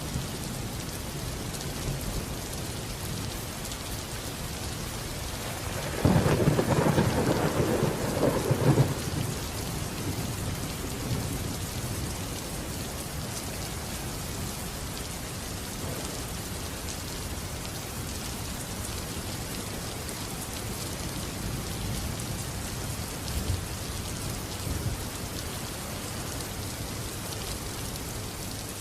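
Steady rain falling, with a roll of thunder rumbling for about three seconds a quarter of the way in.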